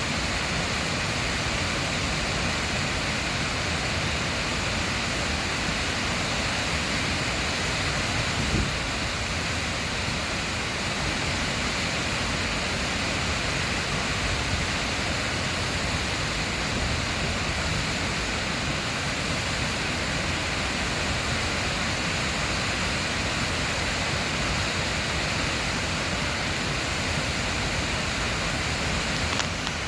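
Llanberis waterfall, swollen after heavy rain, pouring steadily in a constant rushing roar of water, with one faint knock about eight seconds in.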